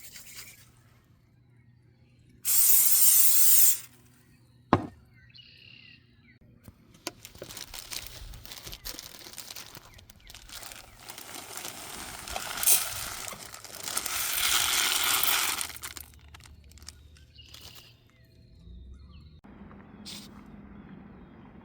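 Ingredients being emptied by hand into a rice cooker pot, a bagged single serving of rice and spices. There is a loud hiss-like shake or pour for about a second, a sharp click a little later, then several seconds of irregular rustling and pouring that is loudest a few seconds before the end.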